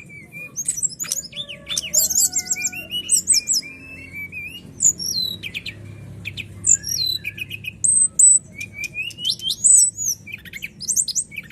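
A brown-chested jungle flycatcher (sikatan rimba dada coklat) singing a long, varied song: quick high chirps, whistled notes and fast up-and-down trills, with brief gaps. A faint low hum sits underneath.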